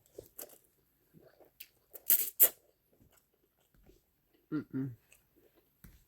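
Close-miked mouth sounds of eating ramen noodles: scattered soft chewing clicks, two loud, sharp noisy sounds about two seconds in, and a short hummed vocal sound near five seconds.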